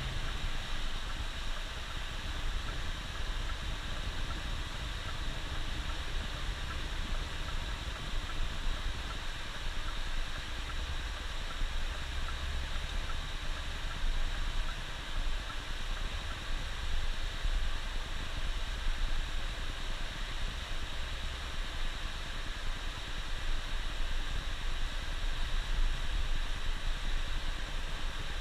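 Bus's diesel engine running low and steady under an even hiss of tyres and road noise.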